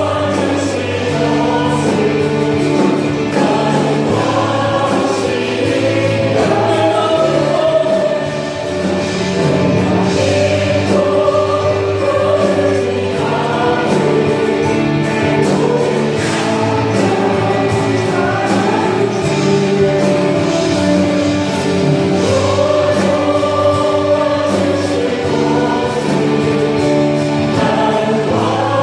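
A worship team and congregation singing a Korean gospel hymn together over band accompaniment, with regular drum beats.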